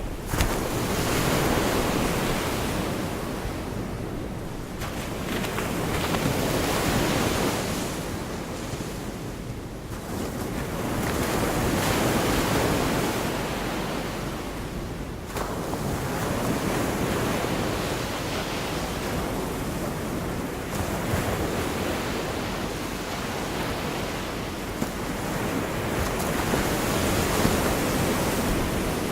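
Sea surf, with waves breaking and washing up the beach, swelling and easing about every five seconds. Some wind is on the microphone.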